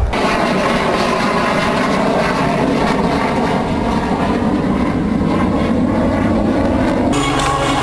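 Loud, steady aircraft engine noise at an air display, with a sudden change in character about seven seconds in.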